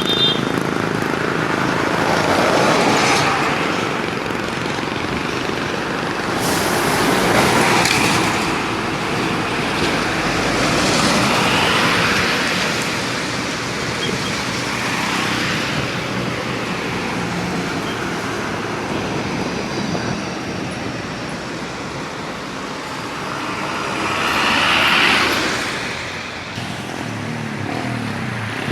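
Road traffic passing, with vehicles going by one after another and the noise swelling and fading with each pass. The loudest pass comes near the end.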